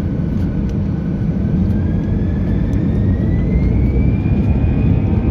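Airbus A320 jet engines heard from inside the cabin: a steady low rumble with a thin whine rising in pitch over the last few seconds.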